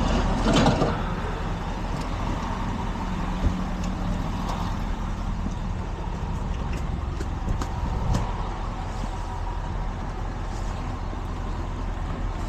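A truck engine idling with a steady low rumble, and a few light knocks over it.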